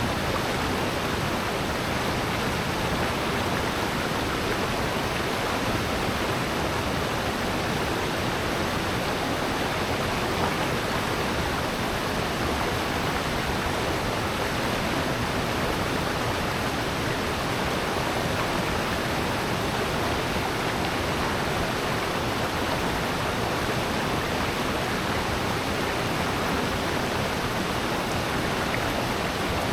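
Mountain-valley waterfall and stream, a steady even rush of falling and flowing water.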